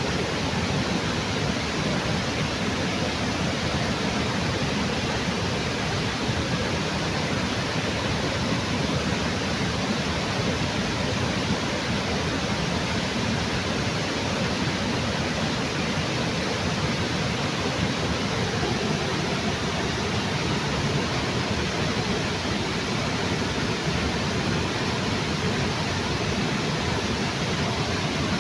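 Water pouring over a small waterfall beneath a bridge: a steady, even rushing.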